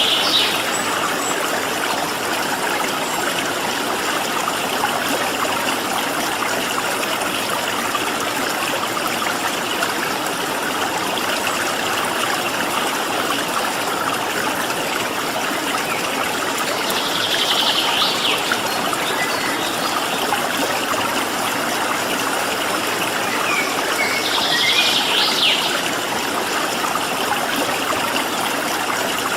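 Stream water flowing steadily, with a small bird giving short, high chattering calls three times: at the very start, a little past halfway, and near the end.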